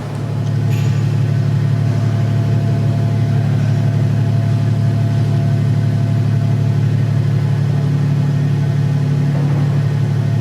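Steady low machine hum that swells over the first second and then holds level.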